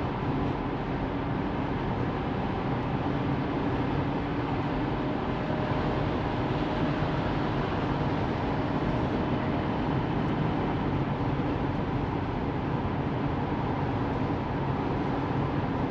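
Steady road and tyre noise of a Tesla Model 3 driving, with no engine sound, heard as an even rush that holds level.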